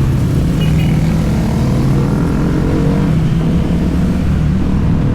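Motorcycle engine and exhaust running steadily at cruise, with road and wind noise.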